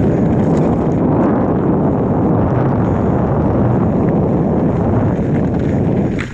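Wind buffeting the microphone, a loud steady rush that sets in suddenly and drops away just before the end.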